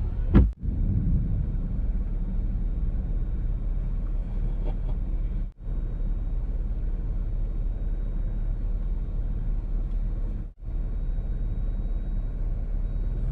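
Steady road and engine noise of a car driving, heard from inside, with a sharp loud crack and short rumble about half a second in, a close thunderclap. The sound drops out suddenly and briefly twice.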